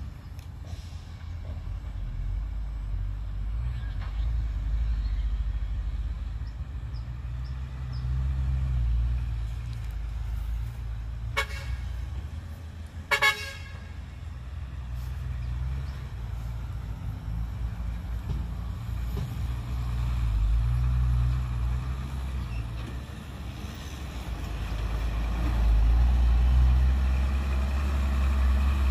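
Heavy diesel engines of dump trucks and a bulldozer running with a steady low rumble that grows louder near the end. A vehicle horn gives two short toots about a second and a half apart, the second louder.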